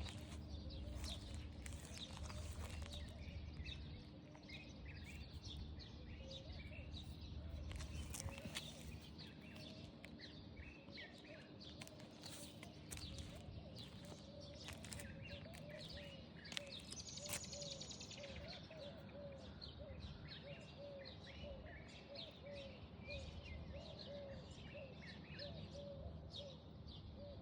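Birds chirping and calling faintly over a low steady background rumble, with a lower call repeated about twice a second in the second half.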